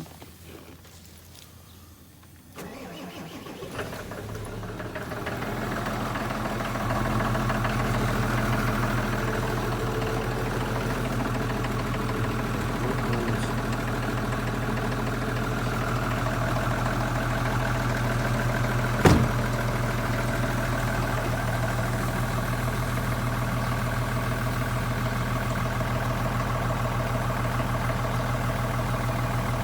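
Mitsubishi Fuso truck's diesel engine running cold at −17 °C: the sound comes up suddenly about two and a half seconds in, builds over a few seconds and settles into a steady idle. A single sharp click partway through.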